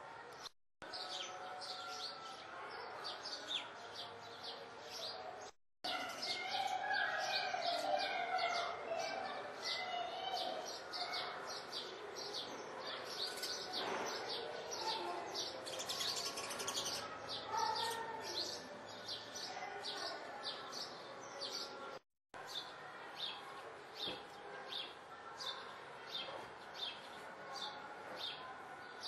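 Small birds chirping, short high chirps repeated evenly about two to three times a second. The sound drops out abruptly three times where recordings are spliced together.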